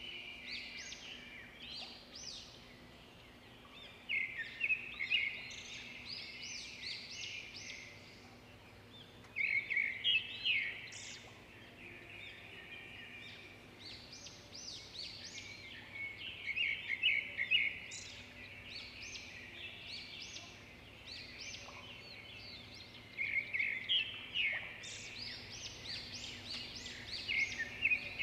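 Birds chirping in bursts of rapid, high chirps that come every few seconds, over a faint steady hum.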